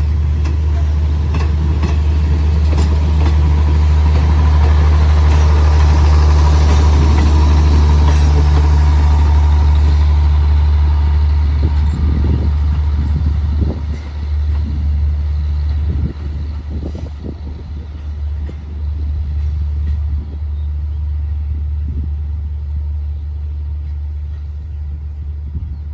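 Diesel passenger train at a station, its engine droning low and steady while wheel and rail noise swells about five to eight seconds in and then fades away. Scattered knocks follow in the second half.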